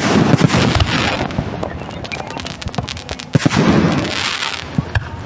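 Fireworks display bursting: a rapid run of bangs and crackling, with two loud clusters, one at the start and one about three and a half seconds in.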